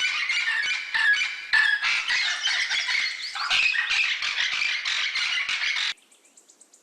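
Parrot calls: a dense, continuous run of high, harsh calls that cuts off suddenly about six seconds in.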